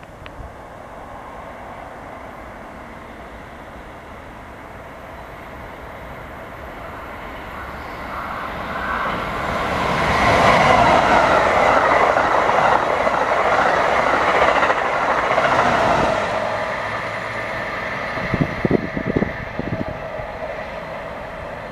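Amtrak's Alstom Avelia Liberty electric trainset passing through the station. The train noise builds as it approaches, is loudest for about six seconds as it goes by, then eases off. A brief run of wheel clacks comes near the end.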